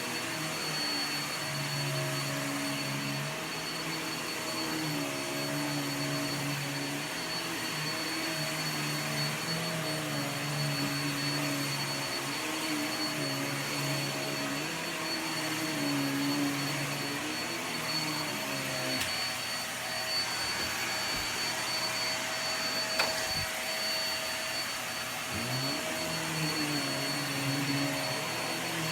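Hoover React vacuum cleaner running steadily with a high motor whine, its lower hum shifting in pitch and dropping out for stretches as it works, with one sharp click near the end.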